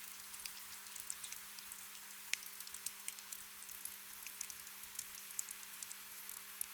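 Gentle rain ambience: a soft steady hiss with many scattered drops pattering irregularly, over a faint steady low hum.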